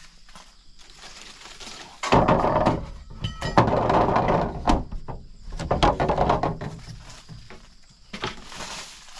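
Rough scraping and knocking of wood, with a quick run of clicks about three seconds in. It is loudest from about two seconds in until about seven seconds in.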